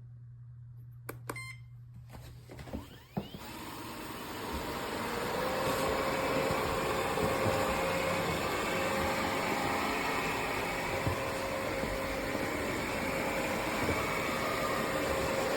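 A few short clicks, then about three seconds in the Airzeen R7 robot vacuum's motor starts, builds up over a couple of seconds and keeps running steadily with a faint whine.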